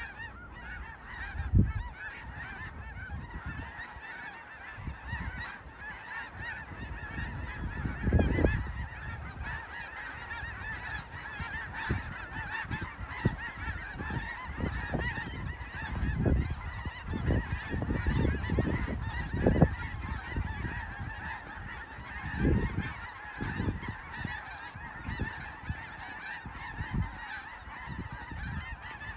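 A massive flock of snow geese calling all at once, a dense unbroken chatter of honks, with occasional low thumps.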